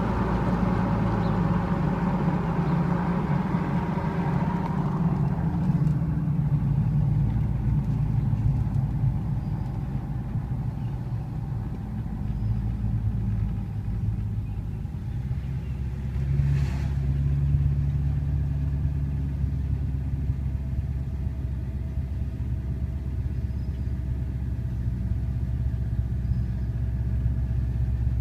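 A car's engine running steadily with a low hum, a higher hiss fading away in the first few seconds and one brief sharp noise about halfway through.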